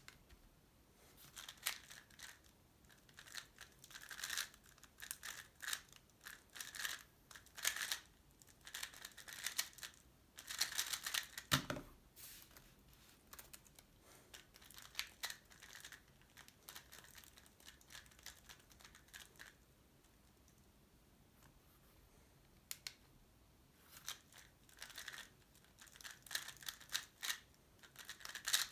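Tornado V3 Pioneer 3x3 speedcube being turned fast, a rapid run of plastic clicks and clacks in long bursts, with a sparser stretch in the middle.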